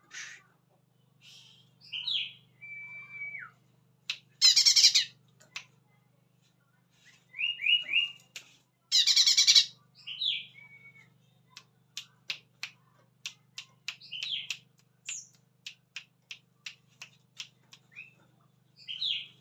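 Cucak ijo (green leafbird) calling: short chirps and whistled slurred notes, two loud harsh rasping calls, then a quick series of sharp ticking notes. A faint steady hum sits underneath.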